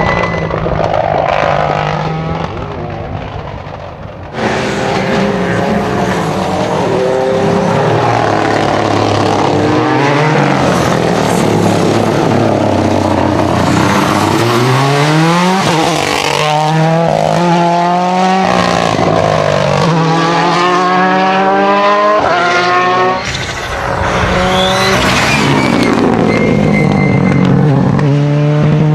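Rally cars driven flat out on a special stage: engines rev hard and drop sharply at gear changes, with tyres squealing. Several separate cars or passes are heard in turn, with abrupt changes about four seconds in and again near the end.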